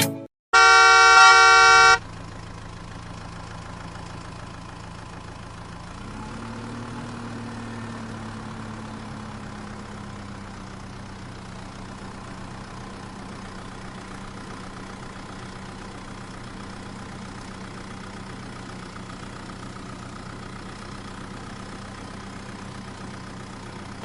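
A loud horn honk lasting about a second and a half, followed by a steady engine drone. The drone rises in pitch about six seconds in and then settles back to an even run.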